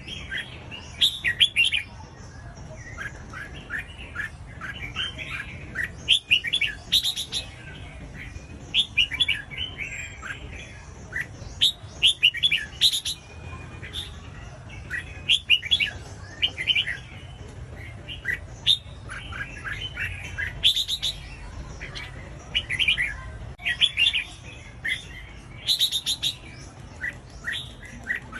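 Red-whiskered bulbul singing: short phrases of quick, bright chirps repeated every second or two, over a low steady hum.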